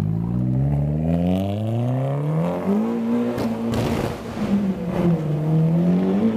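Hyundai Genesis Coupe accelerating hard away. The engine climbs in pitch for about three seconds, drops at a gear change, then climbs again as it pulls off.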